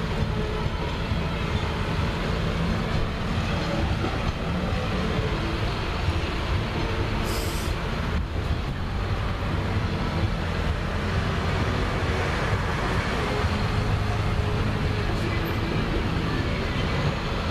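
Tractor engines running steadily with a low drone, with a brief hiss about seven seconds in.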